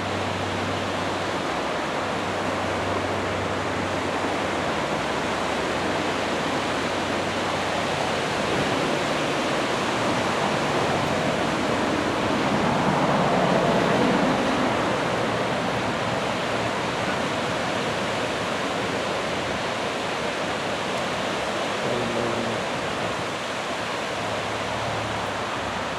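Heavy surf from typhoon swell breaking on a sand beach: a steady rush of waves that swells louder about halfway through, then settles.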